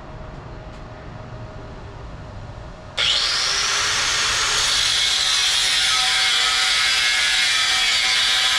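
Power cutting tool, such as a grinder, switching on suddenly about three seconds in and running continuously while it cuts exhaust tubing.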